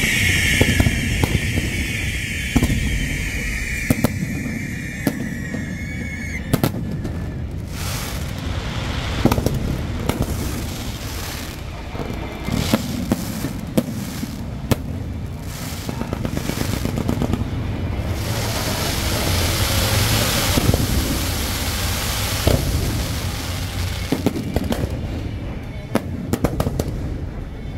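Aerial fireworks display. A high, slightly falling whistle runs through the first six seconds or so, then come repeated sharp bangs and crackles for the rest.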